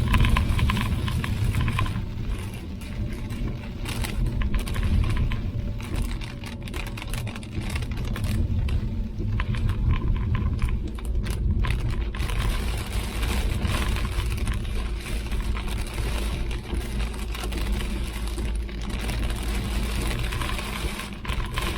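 Vehicle driving, heard from inside the cabin: a steady low road and engine rumble with many irregular light ticks on top.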